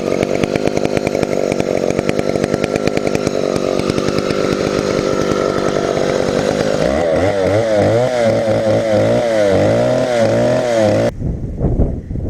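Chinese-made clone of a Stihl 070 chainsaw, its large two-stroke engine running steadily. From about seven seconds in, its pitch wavers up and down repeatedly, and near the end the engine cuts off suddenly.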